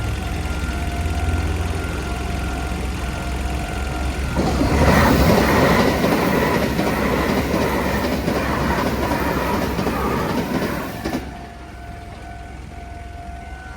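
Japanese level-crossing warning bell ringing steadily, then a train passes through the crossing. From about four seconds in, the train's rushing noise drowns the bell for about seven seconds and then cuts off, leaving the bell ringing on its own again.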